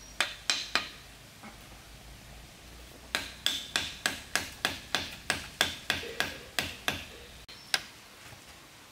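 Sharp knocks: three in quick succession, then a steady run of about a dozen at roughly three a second, and one last knock near the end.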